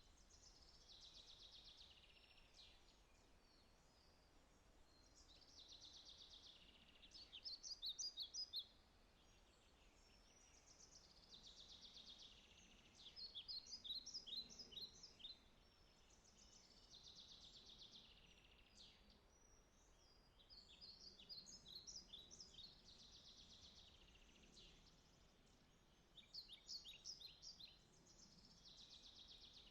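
A songbird singing the same phrase over and over, about every five or six seconds: a high buzzy trill followed by a quick run of sharp, falling notes. It is faint, over a soft background hush.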